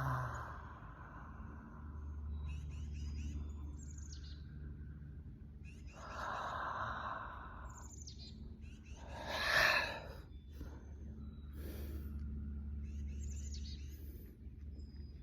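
Birds chirping and singing in the background, with a steady low hum underneath. About nine and a half seconds in comes a short, louder breathy whoosh.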